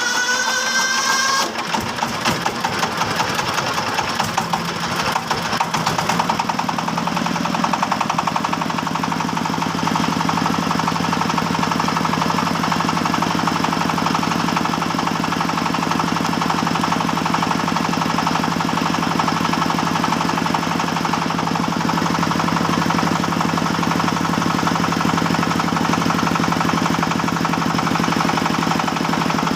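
Two-stroke chainsaw engine just after starting: it revs up in a rising whine that drops away after about a second and a half, wavers for a few seconds, then settles into a steady idle from about eight seconds in.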